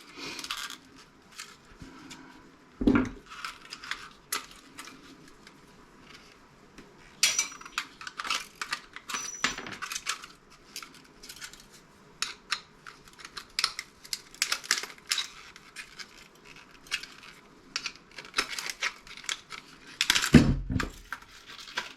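Hand tools and small metal and plastic scrap parts clicking, clinking and rattling at irregular intervals as a CRT monitor's deflection yoke is taken apart, with a heavier thump about three seconds in and another near the end.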